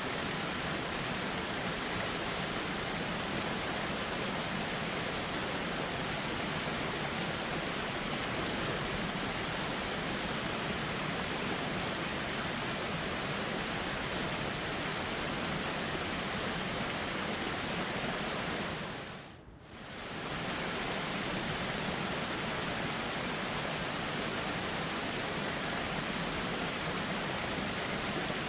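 Steady rushing of a gently flowing river. It fades out briefly and fades back in about two-thirds of the way through.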